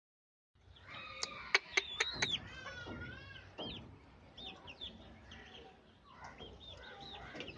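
Aseel chicks peeping in repeated short, high chirps, with a few sharp clicks in the first couple of seconds.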